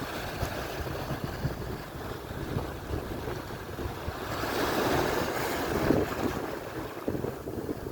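Atlantic surf: waves washing and breaking on the shore, with wind buffeting the microphone. One wave builds and peaks about halfway through, then recedes.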